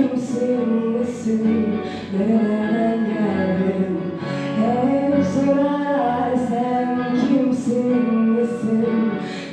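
A woman singing a melody with held, gliding notes over musical accompaniment.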